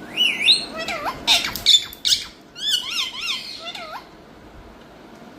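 Indian ringneck parakeet calling: a run of quick chirps and up-and-down whistled notes for about four seconds.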